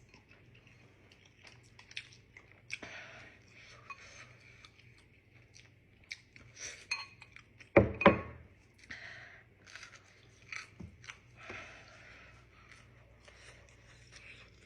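Close-up chewing of a mouthful of Samyang 2x spicy instant noodles, with small clicks and clinks of cutlery against a dish. About halfway through come two loud knocks in quick succession.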